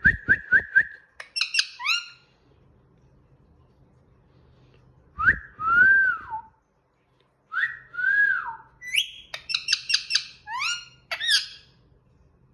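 Indian ringneck parakeet whistling in pitched phrases: a quick run of about five short notes, then two longer whistles that rise and fall, then a fast run of rising and falling notes near the end.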